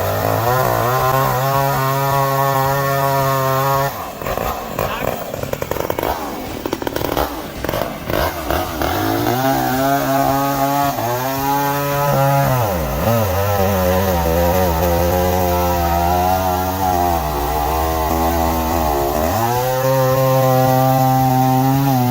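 Chainsaw running while cutting wood, its engine note holding high, then twice dipping and climbing back. About four seconds in there is a rougher, crackling stretch of several seconds before the steady note returns.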